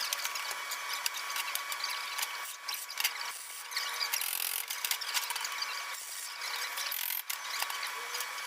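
A small power tool running steadily with a gritty rubbing noise over a steady motor whine, as it grinds or sands the work.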